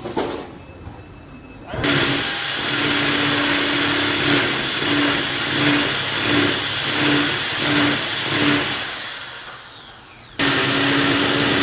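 A motor-driven power tool runs with a steady hum that swells and eases about every second as it is pressed into the work. It then winds down and cuts back in abruptly near the end.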